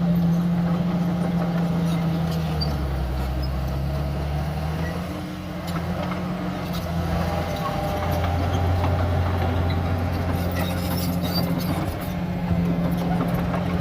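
Heavy diesel earthmoving machinery running steadily, a bulldozer and dump trucks. The engine note drops a couple of seconds in, rises and strengthens about seven seconds in, and shifts again near the end as the machines change load.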